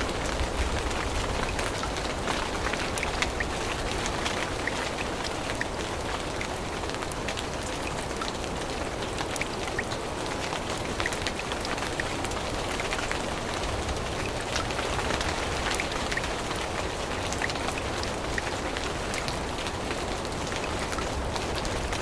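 Steady rain falling in a forest, a constant hiss dotted with many small close ticks of drops hitting leaves.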